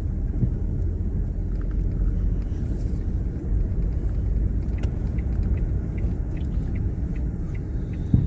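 Steady low road and engine rumble of a Mk7 Ford Fiesta on the move, heard from inside the cabin. From about halfway through, a light, regular ticking comes in, two or three ticks a second.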